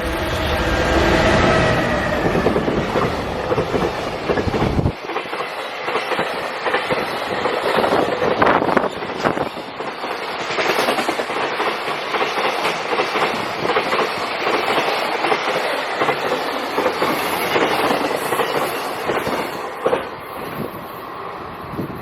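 Electric freight train passing through a station. A heavy rumble with some steady tones from the locomotive lasts about five seconds, then a long run of wagons follows with a rhythmic clickety-clack of wheels over the rail joints.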